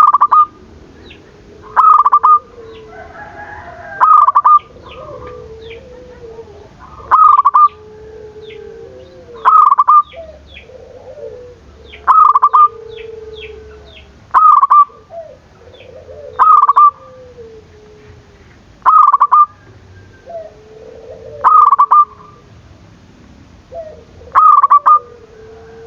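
Zebra dove (perkutut) cooing loudly: a short, pulsed call repeated about every two and a half seconds, with softer, lower warbling coos in between. It is a dove in full song, used as lure audio to set other zebra doves calling.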